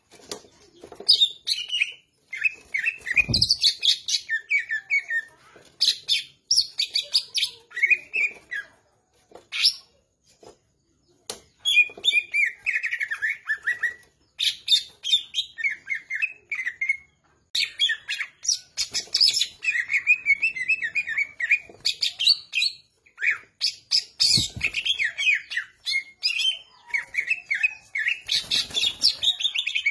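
Cucak ijo (greater green leafbird) singing gacor: rapid, varied chirps, whistles and trills in near-continuous phrases with short pauses. A few low thumps sound under the song, about three seconds in and twice near the end.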